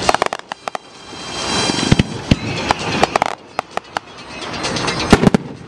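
Fireworks display: shells bursting in sharp bangs and quick clusters of crackling reports, over a rushing noise that swells and fades between the volleys.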